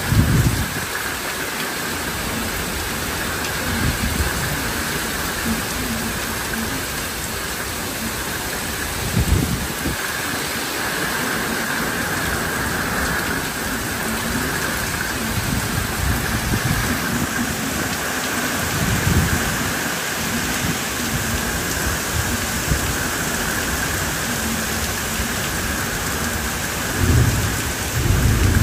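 Heavy rain pouring down steadily, with a few brief low rumbles rising out of it, the longest near the end.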